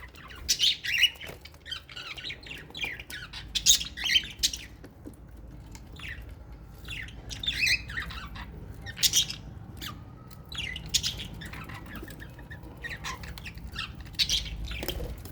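Several small aviary parrots calling: sharp squawks and chirps that come in quick irregular bursts, some overlapping, over a low steady hum.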